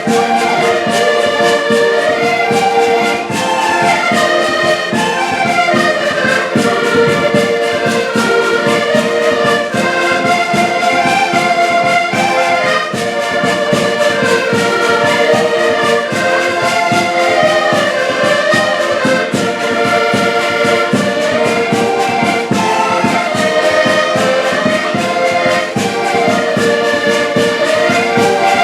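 A live band playing music with a steady beat and several moving melody lines.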